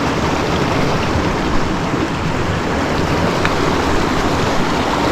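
Steady rushing of a fast-flowing creek, an even, unbroken water noise.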